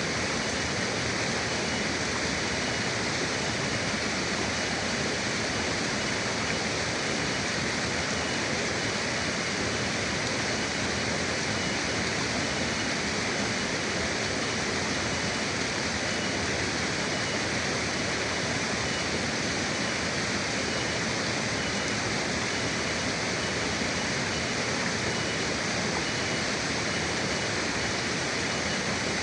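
Forest river water rushing steadily in an even, unbroken wash with no pauses or changes. A faint, steady high tone runs through it.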